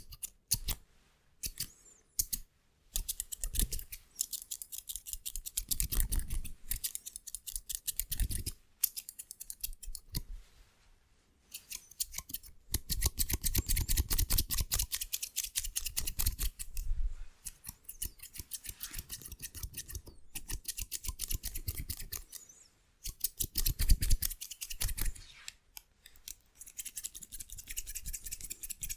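Hair scissors snipping very fast and hard, many snips a second, in runs broken by a few short pauses.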